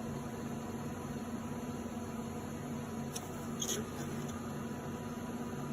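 Steady electrical hum of a running microwave oven, with a faint throbbing undertone and a couple of faint clicks about three and a half seconds in.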